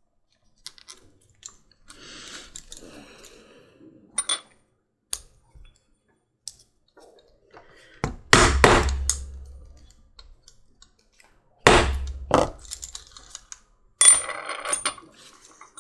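Small metal tags clinking and clicking as they are handled. Then a hammer strikes a rivet setter about five times in three groups, setting a small rivet through the leather collar. The last strike rings briefly.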